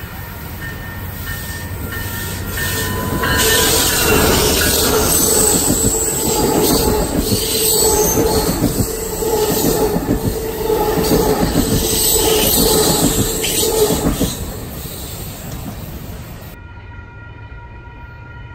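Train passing close by, its wheels rumbling and squealing on the rails. It builds up over the first few seconds, is loudest through the middle, then dies away near the end.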